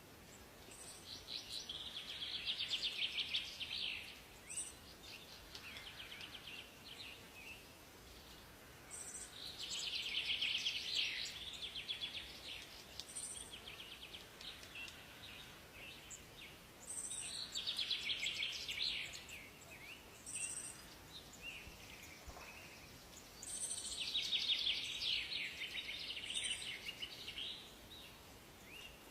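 Songbirds singing in a forest: rapid trilling song phrases come four times, each lasting a few seconds, with short high chirps between them over a faint steady background hiss.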